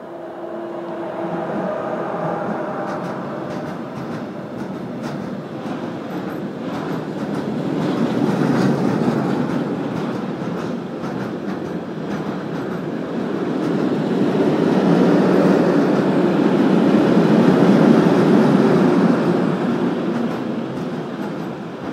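Freight train of covered hood wagons rolling past close by: a steady rumble of wheels on rails that swells louder twice, with a run of clicks as wheels cross rail joints and a few faint steady tones near the start.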